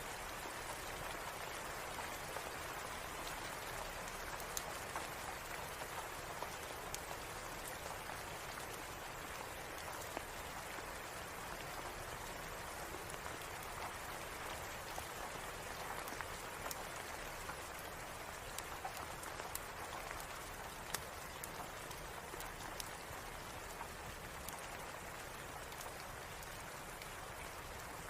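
Steady rain falling, with many small sharp ticks and pops scattered through it.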